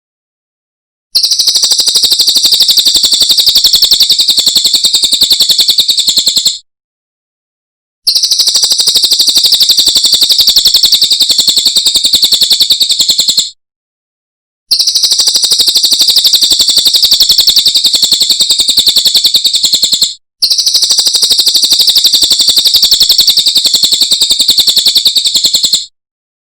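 Cililin (velvet-fronted nuthatch) song: four long, very rapid high-pitched trills of evenly repeated notes, each about five and a half seconds, with short silences between.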